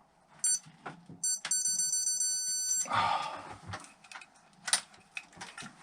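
Electronic beeping: two short beeps, then one long steady beep lasting about a second and a half. It is followed by the clatter and knocks of metal tools being handled.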